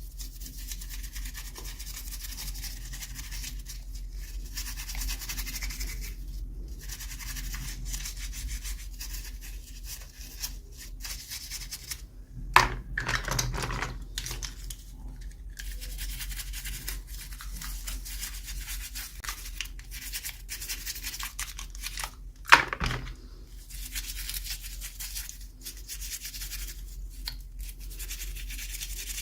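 Steady scratching and rubbing of toy packaging being handled and opened by hand, with short pauses and two sharper knocks, one about twelve seconds in and one about ten seconds later.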